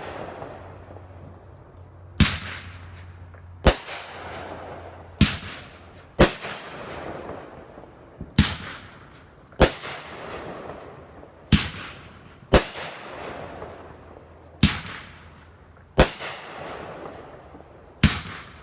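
Aerial fireworks going off one after another: about eleven sharp bangs spaced a second or two apart, each followed by a fading crackle.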